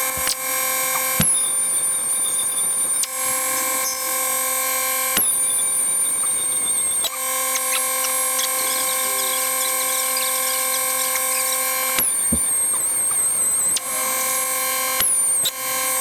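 A power tool running steadily, its sound changing abruptly several times, with a high whine that drops slightly in pitch at the start of some stretches.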